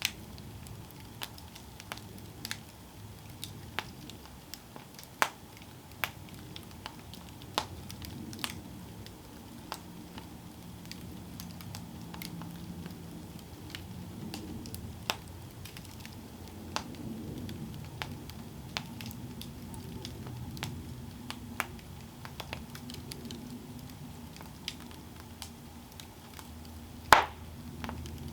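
Campfire burning: a low steady hiss with irregular sharp crackles and pops from the burning wood, the loudest pop near the end.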